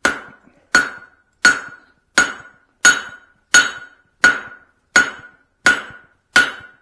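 Blacksmith's hand hammer striking a hot steel hammer head on the anvil, forging it by hand: ten even blows at a steady rhythm of about one and a half a second, each followed by a short metallic ring.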